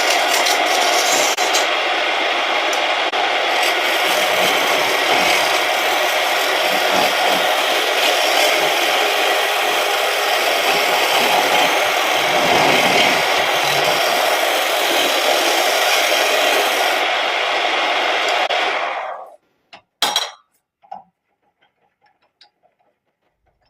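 A turning tool scraping and cutting spinning surian wood on a homemade wood lathe, a steady rasping sound. It stops abruptly about nineteen seconds in, followed by a sharp knock and a few faint clicks.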